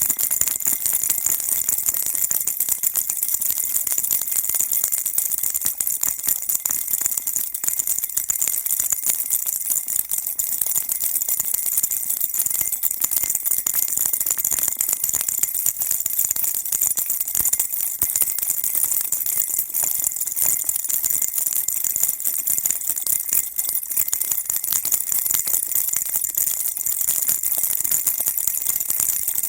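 A baby rattle shaken continuously, giving a dense, steady, bright jingling rattle with no pauses.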